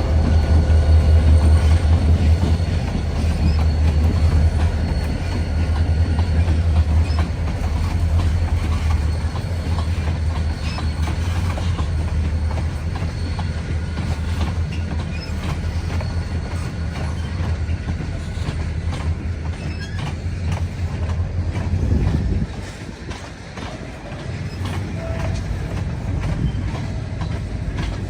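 Freight train cars rolling past close by: a heavy low rumble with rapid clicking of wheels over rail joints and a faint high wheel squeal. The rumble drops off sharply about 22 seconds in, and the cars keep rolling more quietly.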